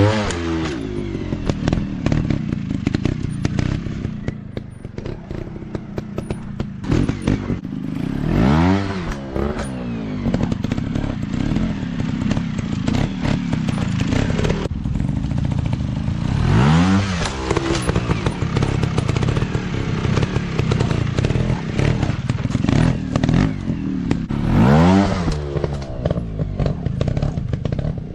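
Dirt bike engines revving hard, swelling and sweeping up and down in pitch four times, about every eight seconds, with steady engine running and clatter between.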